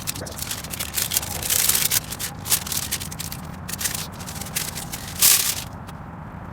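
Irregular rubbing and scratching of Sharkbite underground wrap tape being stretched and wound around a copper pipe fitting. The handling stops a little before the end.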